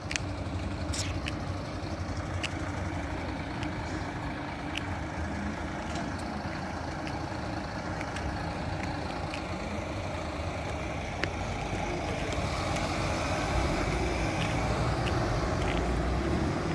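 Road traffic: a steady rumble of passing vehicles, cars and heavier trucks, getting a little louder over the last few seconds.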